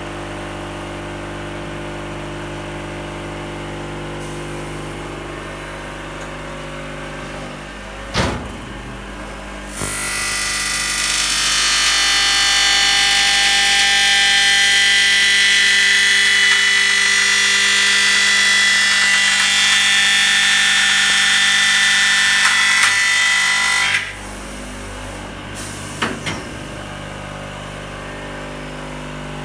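KABAN CA 3020 three-cutter corner cleaning machine for PVC windows running with a steady hum. About ten seconds in, its cutters mill the welded PVC frame corner, a loud high cutting whine lasting about fourteen seconds that stops suddenly. There is a knock shortly before the cutting and a couple more shortly after it.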